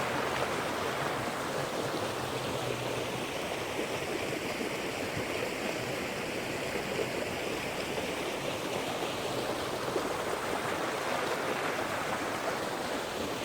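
Creek water running over rocks, a steady rushing.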